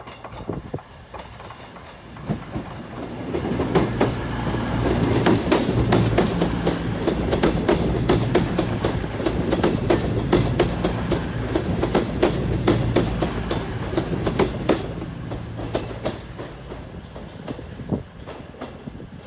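CrossCountry Class 221 Super Voyager diesel-electric multiple unit running past close by: a steady diesel engine hum under rapid clicks of wheels over the track. It builds over the first few seconds and fades near the end.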